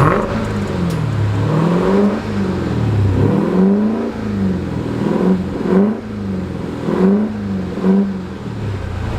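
Dodge Durango SRT Hellcat's supercharged 6.2-litre HEMI V8 revved in place, its exhaust still fitted with the mid-muffler. There are a few long revs that climb and fall back in the first four seconds, then about five short, quick blips.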